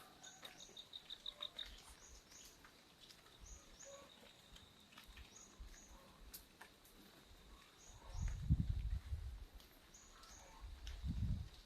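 Birds chirping a repeated short two-note call, with a rapid pulsing trill in the first couple of seconds, over scattered light ticks of dripping rain. Low rumbling bumps come about two-thirds through and again near the end.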